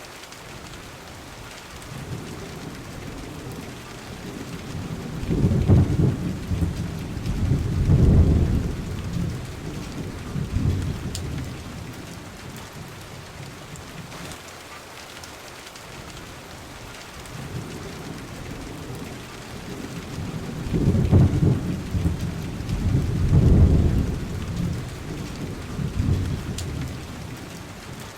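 Steady rain with two long, low rolls of thunder, one in the first half and one in the second, each swelling and fading over about ten seconds.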